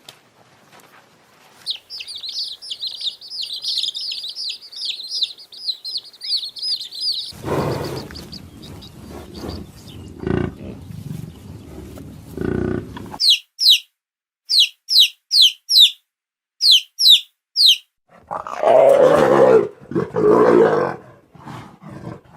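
A run of different animal calls one after another. First a rapid high chirping, then several low rough roar-like calls, then a series of short high whistles each falling in pitch, and last two loud, low, drawn-out calls.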